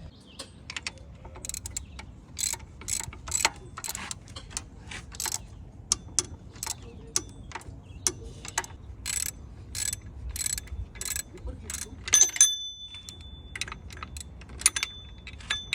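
Hand tools working on the engine's belt tensioner: a long run of sharp metallic clicks, a few a second, like a ratchet wrench, with a short ringing metal clink a little past the middle.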